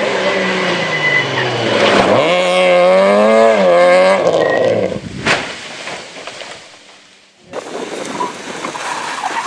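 Rally car engine at high revs, its pitch dipping and climbing as the throttle and gears are worked, then fading as the car goes away. A single sharp crack comes about five seconds in. After an abrupt change, a noisier stretch with a faint engine follows.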